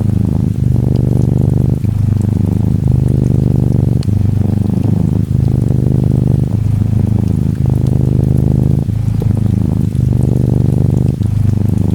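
Norwegian Forest Cat kitten purring steadily, the low buzz dipping briefly about every second as it breathes in and out, with faint rain ticking behind it.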